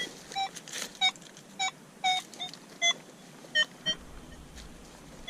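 Metal detector sounding short target tones as the coil is swept over the ground: about nine quick beeps at slightly varying pitch, each one signalling metal under the coil. The detector is run in all-metal mode, so it also sounds on foil and trash.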